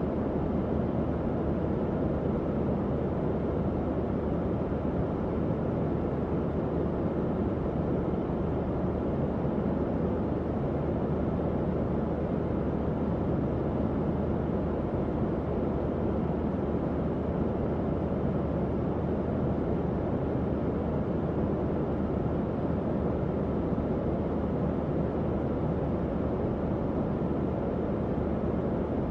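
Tower fan running steadily: an even, low-pitched whoosh of moving air with a faint motor hum underneath.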